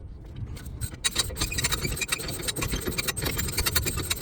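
Rapid, irregular clattering and scraping of metal parts and tools at the mount of a semi truck's air dryer as it is being unbolted, starting about a second in, over a steady low rumble.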